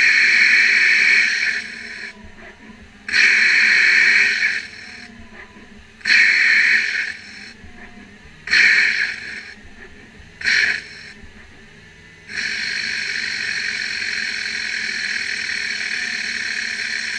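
Hissing in repeated bursts of a second or two, five times, then a long steady hiss from about twelve seconds in.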